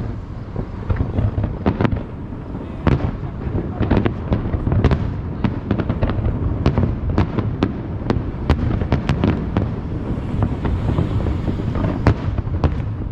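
Aerial fireworks display: shells bursting in quick succession, many sharp bangs and crackles over a continuous low rumble, thickest in the middle.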